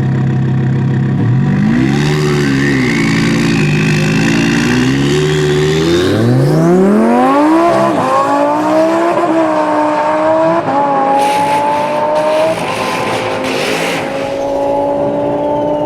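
Twin-turbo Lamborghini drag car idling, then revved up and down on the line for a few seconds. About six seconds in it launches, the engine note climbing steeply and then rising through several upshifts as the car pulls away down the strip.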